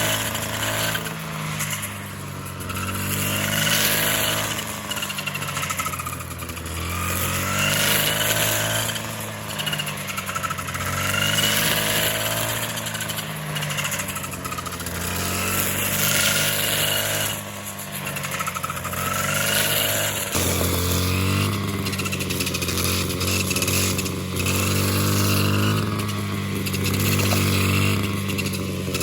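A small engine running, its pitch rising and falling about every four seconds as if under changing load, then settling into a steadier, lower note from about twenty seconds in.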